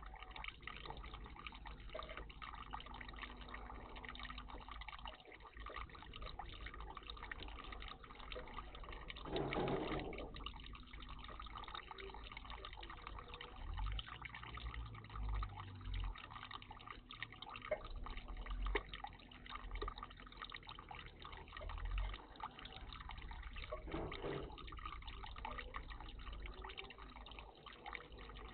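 Water trickling and splashing in a garden bird bath, steady throughout, with two louder splashing bursts, one about a third of the way in and one near the end, and a few dull low thumps in the middle.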